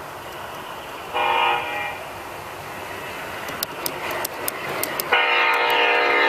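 Horn of a garden-scale model train's onboard sound system: a short blast about a second in, then a long blast starting near the end, over steady running noise. Sharp clicks come in a run just before the long blast.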